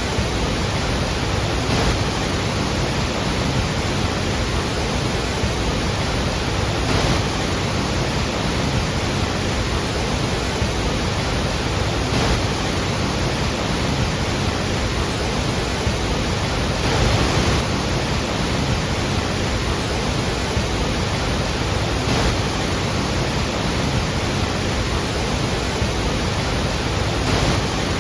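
Steady rush of falling water from the Iguazú Falls, an even wash of noise with slight swells now and then.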